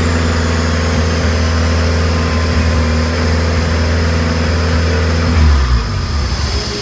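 Turbocharged Honda K20 four-cylinder in an all-wheel-drive Integra running loud and steady on a chassis dyno, then winding down about five seconds in as it comes off the throttle.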